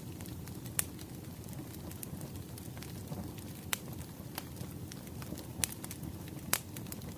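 Wood fire crackling, a steady low rumble of burning with irregular sharp pops, a few of them louder than the rest.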